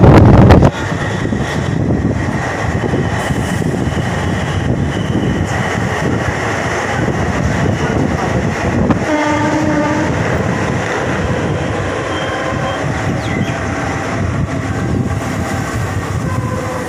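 Passenger train running, heard from an open coach door: a loud rumble cuts off abruptly within the first second, then a steady running noise as the train rolls along a station platform. The horn sounds once, briefly, about halfway through.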